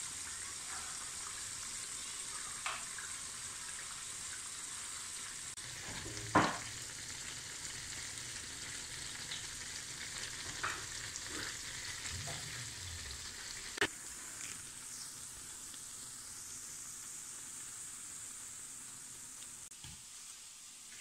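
Spiced plantain cubes deep-frying in hot oil, a steady sizzle that eases off a little in the second half. A few short sharp knocks cut through it, the loudest about six seconds in.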